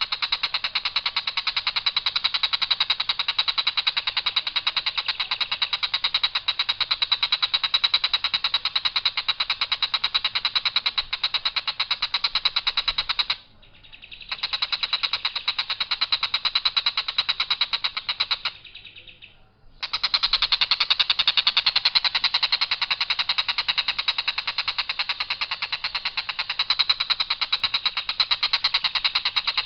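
Tengkek buto bird giving its harsh, long-drawn rattling call, a very fast run of rough notes on one level pitch without variation. It runs for about thirteen seconds, breaks off briefly, then gives a run of about four seconds, pauses again, and goes on for about ten more seconds.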